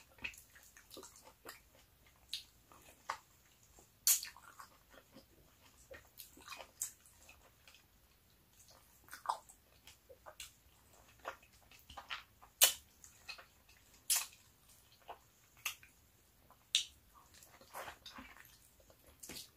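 Close-up chewing and biting of juicy orange flesh: irregular wet mouth clicks and smacks, a few of them sharper and louder.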